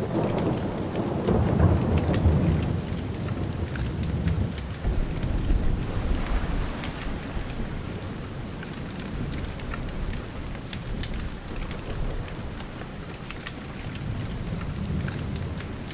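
Steady rain falling, with low rolls of thunder swelling in about a second in, again around five seconds in, and near the end.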